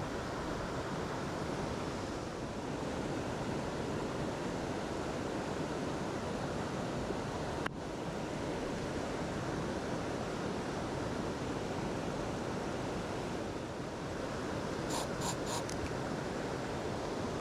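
Mountain stream water rushing steadily over rocks, an even wash of noise. About three quarters of the way through, a few short high chirps sound over it.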